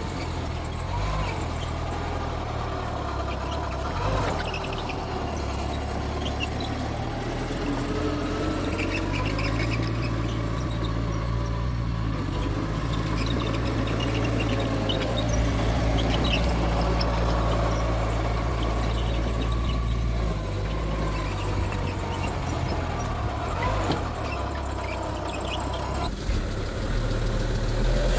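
Mitsubishi G2 bulldozer at work, its diesel engine running steadily, with drawn-out squeals wavering in pitch over the engine drone.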